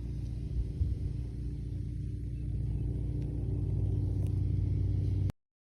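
Low, steady rumble of a motor vehicle with a hum in it, growing louder after about three seconds and cutting off abruptly near the end.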